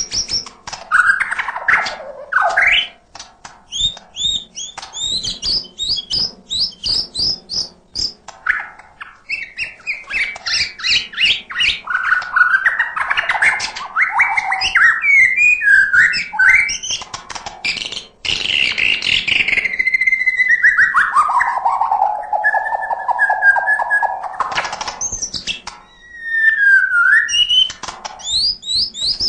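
White-rumped shama singing a long, varied song: rapid runs of repeated chirps, clear whistles and sliding notes. About two-thirds of the way through comes a long whistle that falls and then holds steady.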